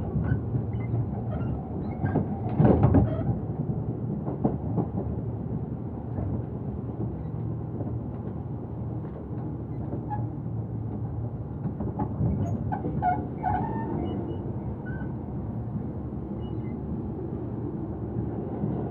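Tobu Urban Park Line commuter train heard from inside the car while running: a steady rumble of wheels on rails with scattered clicks. About three seconds in comes a loud clattering jolt of the car.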